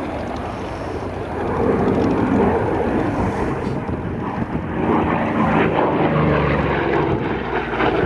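FG-1D Corsair's radial engine and propeller running in flight during an aerobatic display. The pitch shifts, and the sound grows louder about a second and a half in.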